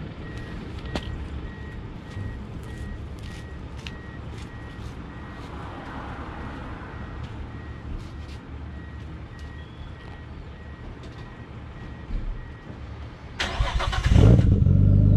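Nissan Skyline R33 GTS-T's RB25DET turbocharged straight-six is cranked briefly near the end and catches into a loud, steady idle through the exhaust. Before the start there is only a low rumble with scattered light clicks and a faint, evenly repeated beeping.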